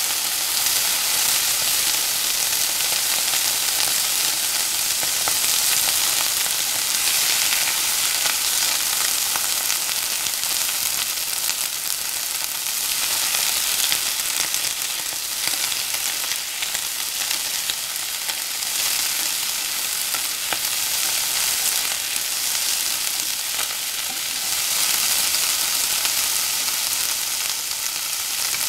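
Shredded banana flower frying in hot oil in a wok: a steady sizzle.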